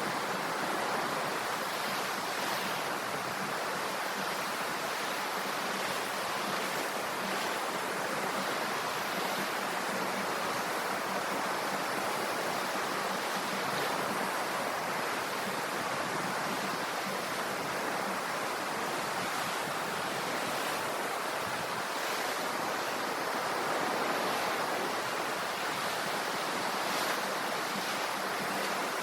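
Sea waves: a steady rush of surf with only slight swells in loudness.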